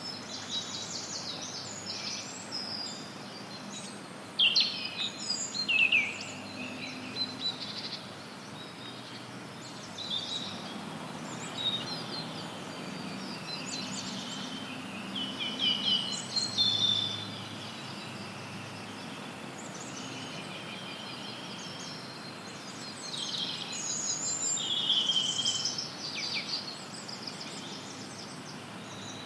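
Several wild birds singing and chirping in a forest, over a steady hiss of added white noise. The calls come in scattered high chirps and trills, with the loudest bursts about five seconds in, near the middle, and again around twenty-four seconds.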